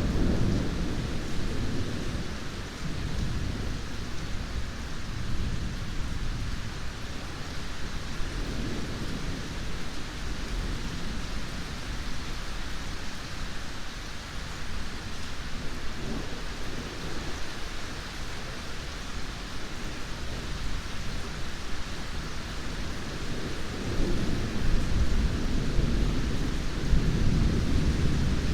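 Steady heavy rain with rolling thunder. Low rumbles swell at the start, a couple of times in the middle, and most strongly from about 24 seconds on.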